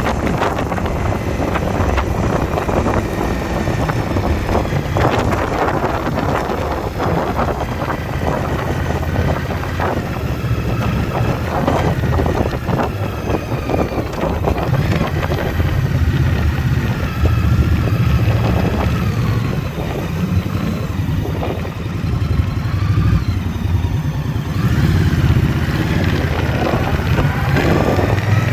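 Indian motorcycle's V-twin engine running under way at road speed, its note rising and falling with the throttle, with wind buffeting the microphone.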